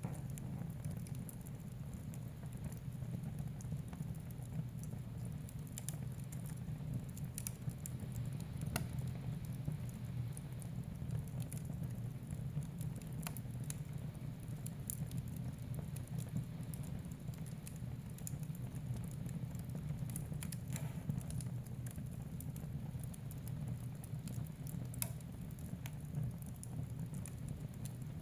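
Wood fire burning in a fireplace: a steady low rumble of the flames with irregular crackles and small pops scattered throughout.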